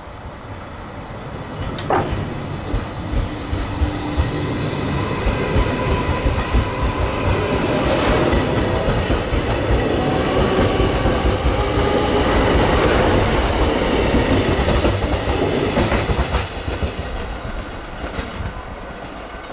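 A JR Hokkaido 789 series 0 electric express train moves past on the rails, its wheels clicking over the rail joints. The sound builds for several seconds after a sharp click about two seconds in, is loudest in the middle, and falls away near the end.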